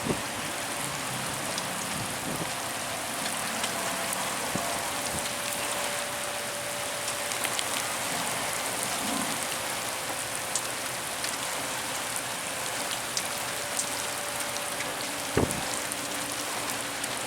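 Steady hiss like rain falling on a surface, with scattered small ticks. A faint steady hum runs underneath, and a short knock comes about fifteen seconds in.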